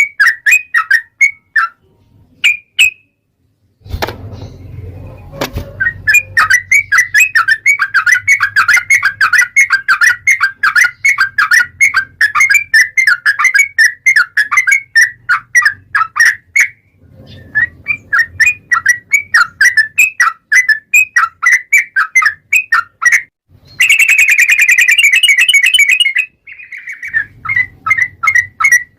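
Yellow-vented bulbul (trucukan) singing a long, fast run of short chattering notes at about five a second, all near the same pitch. A short pause near the start ends with a low thump, and near the end the song turns briefly into a denser, buzzy trill.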